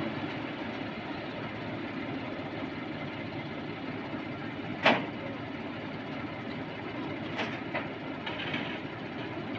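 Steady engine and machinery noise of a truck-mounted crane at work, with one sharp knock about five seconds in and a few lighter knocks near the end.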